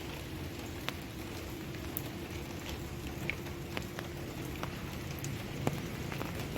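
Rain falling steadily, with scattered individual drops striking close by as sharp ticks.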